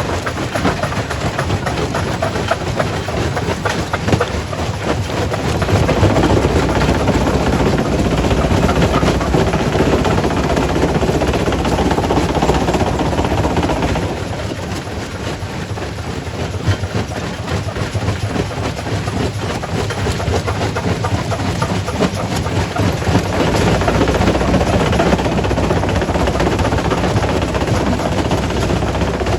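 Quarry primary rock crusher crushing stone: a continuous grinding rattle of breaking rock with many small knocks, over a steady low machine hum. It grows louder about six seconds in, eases off about halfway, and builds again near the end.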